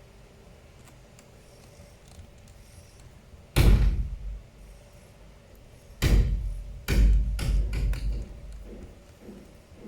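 Heavy thumps and knocks of hard objects being handled and set down on a work surface: one about three and a half seconds in, then a quick run of four or five from about six to eight seconds in.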